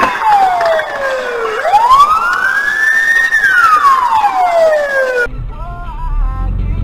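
Emergency vehicle siren wailing, its pitch slowly rising and falling in long sweeps, cutting off suddenly about five seconds in. After the cut comes a low rumble with a short warbling tone.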